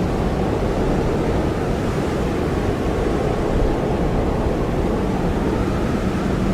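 Blizzard wind blowing steadily: a dense, low rushing noise that holds an even level, with no single gust standing out.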